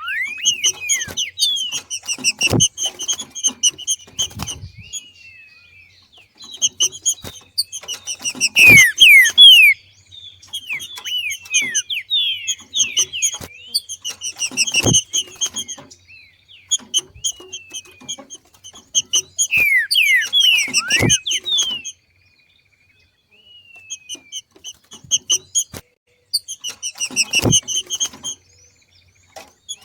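Green-winged saltator (trinca-ferro) giving its chattering 'macheado' call, the call of a bird coming into breeding condition: about five bouts of rapid high notes and falling whistled sweeps, a few seconds apart. Each bout has one sharp thump.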